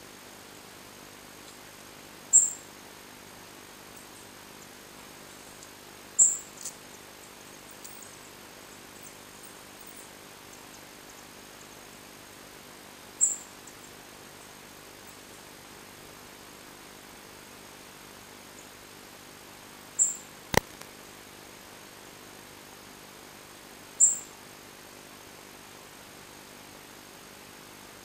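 Fledgling songbird at the nest giving single short, very high chirps, five in all at irregular gaps of a few seconds, over a faint steady hum. A sharp click comes about three-quarters of the way through.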